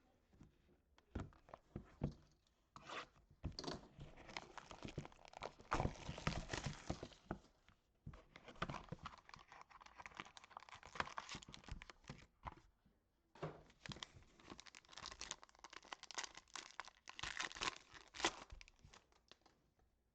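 Trading card packaging being torn open and crinkled by hand. A few light knocks come first, then three long stretches of crackling and tearing.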